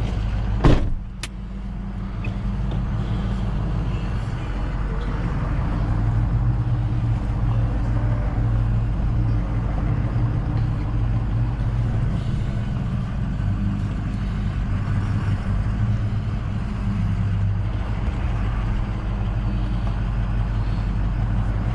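Truck engine running steadily at low revs, with a couple of sharp clicks about a second in.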